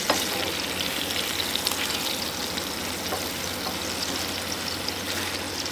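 Burger patties frying in butter in a pan: a steady sizzle with fine crackles and a few sharper pops.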